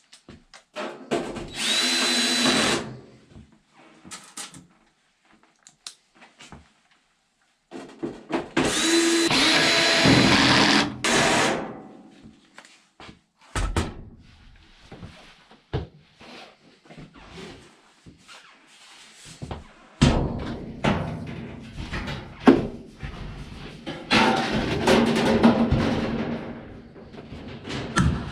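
Power drill running in three bursts of a few seconds each, a steady whirring whine, with clicks and knocks of handling in between.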